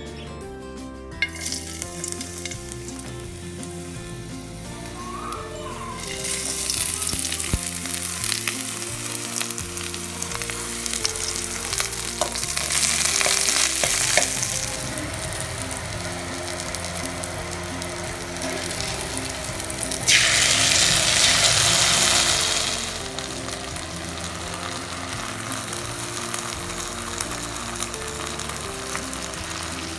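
Chopped garlic, onions and green chillies sizzling in hot oil in a steel pan. The hiss starts about a second in and swells louder three times.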